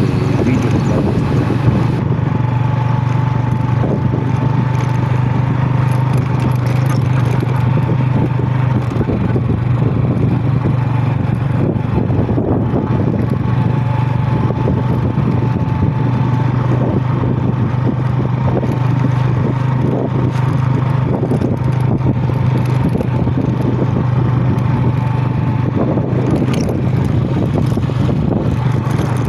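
Steady low mechanical hum with a thin whine above it, like a motor or engine running at constant speed.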